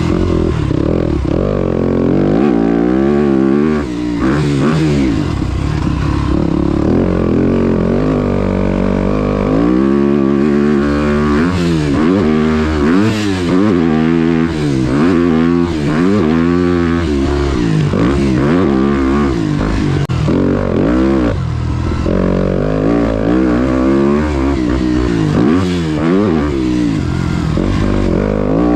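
Motocross dirt bike engine being ridden hard round a track, revving up and falling back over and over as the rider works through the throttle and gears.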